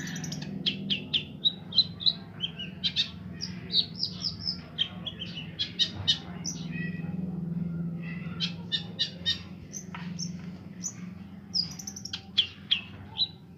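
Long-tailed shrike (cendet) singing a fast, ever-changing string of chirps, whistles and short trills, mimicking the calls of other birds. A steady low hum runs underneath.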